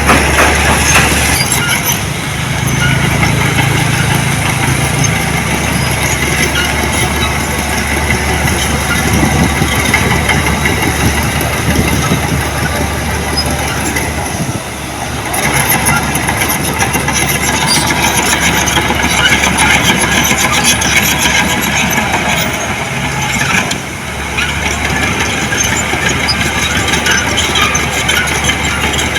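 Diesel engine of heavy earthmoving machinery running steadily, dipping briefly in loudness about 15 and 24 seconds in.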